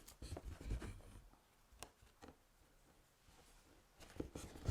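Crewel wool being pulled through fabric with an embroidery needle: faint scratchy pulls and small taps, a few times with pauses between.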